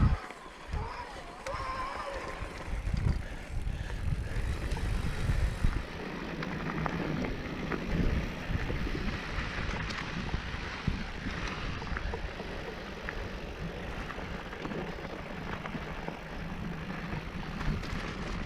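Mountain bike riding along a dirt trail: tyre noise and rattling of the bike with scattered sharp clicks, and wind buffeting the microphone in gusts.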